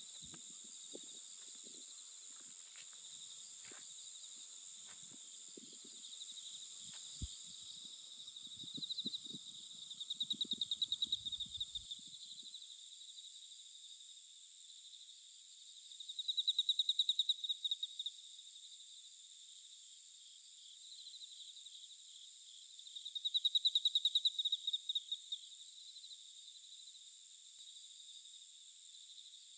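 Insects chirping: a steady high-pitched buzz with trills of rapid pulsing chirps, each about two seconds long, coming back every six or seven seconds. Faint rustles and small knocks during the first twelve seconds or so.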